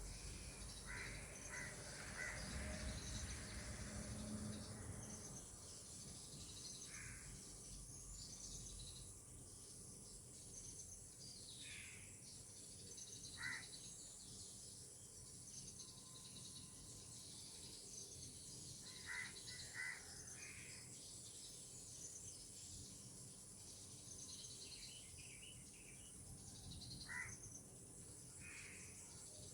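Outdoor tropical ambience: a steady high insect chirring with short bird calls dotted through it, some in quick pairs. A low rumble sits under the first few seconds.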